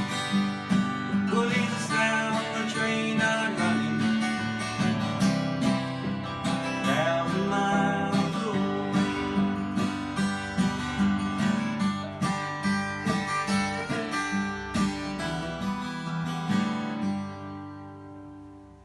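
Acoustic guitar playing the song's closing instrumental bars, picked and strummed, then ringing out and fading away over the last couple of seconds.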